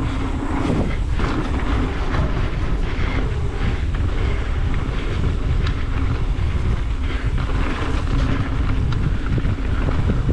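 Wind buffeting a camera microphone on a downhill mountain bike run, with tyres rolling over a rough dirt trail and the bike clattering over bumps.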